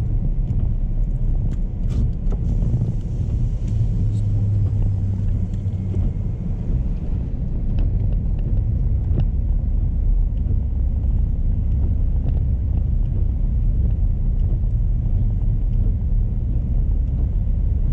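Car driving on snowy roads, heard from inside the cabin: a steady low engine and tyre rumble, with a low hum that swells for about two seconds around four seconds in.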